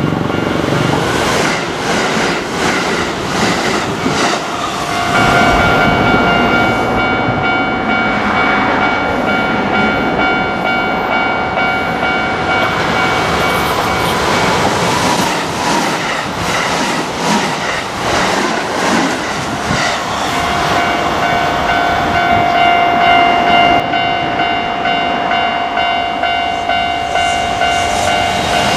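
A Kintetsu Osaka Line train running over a level crossing, its wheels rumbling and clacking on the rails. Steady high ringing tones sound above it from about five to fourteen seconds in, and again from about twenty seconds in.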